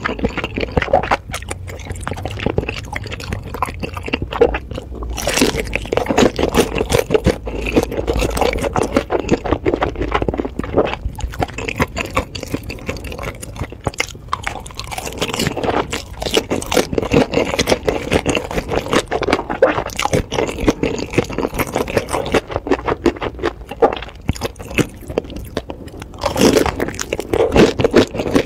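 Close-miked eating: a person biting into and chewing sauce-coated pan-fried dumplings, a dense run of small wet mouth clicks, louder about five seconds in and again near the end.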